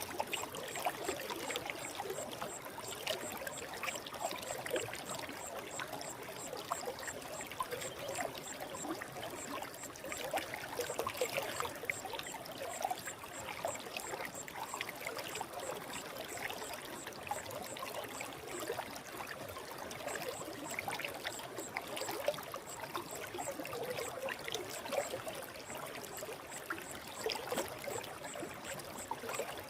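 Forest stream flowing steadily, with continuous bubbling and trickling of water.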